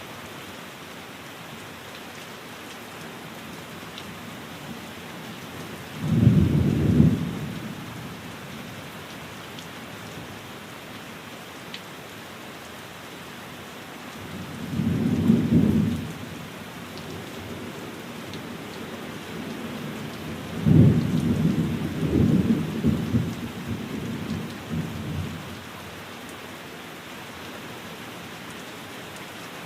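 Steady rain falling, with three low rolls of thunder: one about six seconds in, one about halfway through, and a longer, rolling one a few seconds later.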